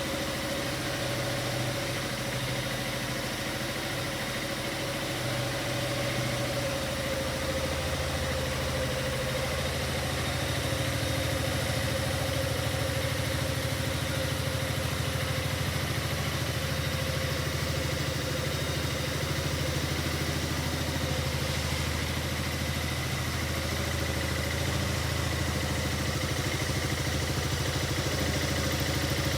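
Yamaha MaXam SG21J 250 cc scooter's single-cylinder four-stroke engine idling steadily.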